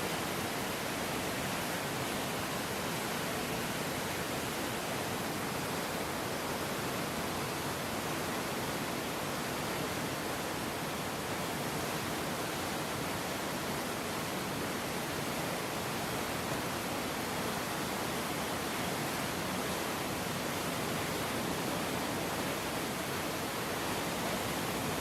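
Swollen river in flood, its rushing water making a steady, even noise that does not change.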